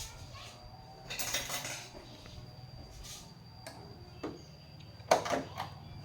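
Small hard objects clinking and being handled, with a sharp knock about five seconds in, over a steady low hum and a thin steady high tone.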